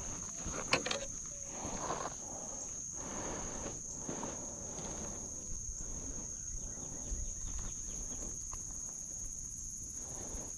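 Insects, crickets or the like, keeping up a steady high-pitched drone over faint outdoor background noise, with a few soft knocks and rustles, the clearest just under a second in.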